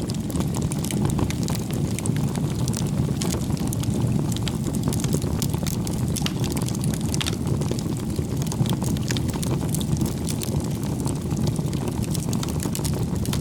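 Wood fire burning, with a steady low rumble of the flames and many small crackles and pops from the burning firewood throughout.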